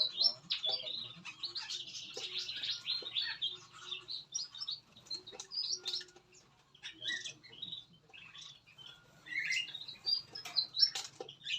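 Many small aviary songbirds chirping and calling over one another in quick, overlapping high notes, busiest at the start, thinning out for a couple of seconds past the middle, then picking up again.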